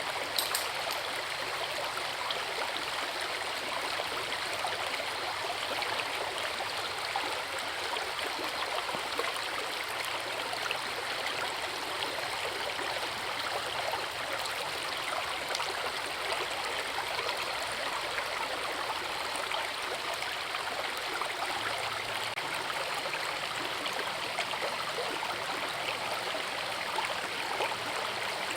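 Forest river running over a waterfall: a steady, even rush of water with fine splashing and gurgling throughout.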